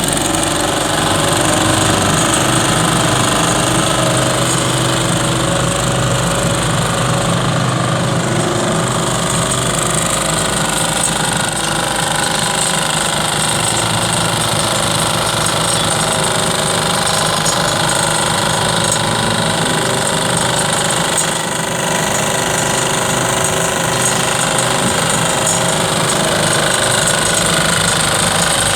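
Mini road roller running steadily and loud, its engine and machinery giving a continuous dense mechanical noise.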